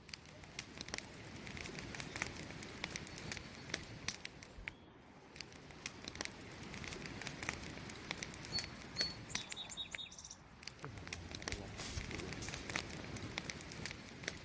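Wood campfire burning, crackling and popping: a steady soft rush of flame with many small sharp snaps throughout, and a couple of brief high chirps about nine seconds in.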